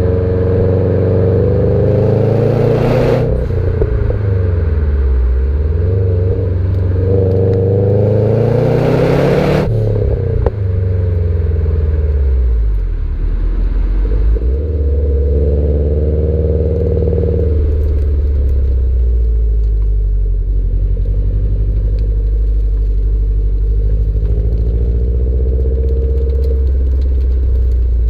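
Subaru Impreza STI's turbocharged flat-four engine through its standard exhaust, pulling hard up through the revs twice. Each pull ends in a loud rushing hiss and a drop in pitch as the car shifts up. The engine then eases off and settles into a steady low drone.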